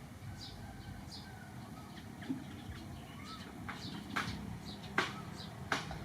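Small birds or chicks chirping: short, high-pitched, falling chirps repeating about twice a second. Several sharp clicks or taps come in the second half.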